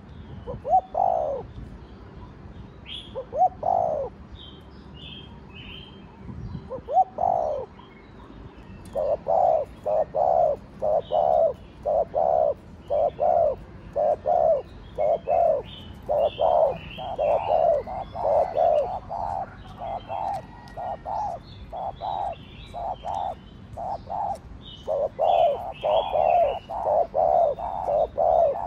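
Spotted dove cooing: three spaced single coos, then from about nine seconds in a fast run of short coos, about two a second. Faint high chirps of small birds sound over it.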